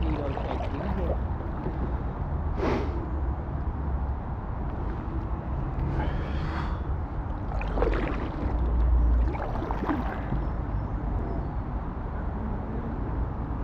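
Kayak paddles dipping and splashing in river water a few times, over a steady low rumble.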